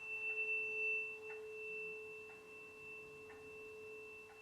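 A tuning fork rings on after being struck, a steady pure tone with a high overtone above it. Faint ticks sound about once a second.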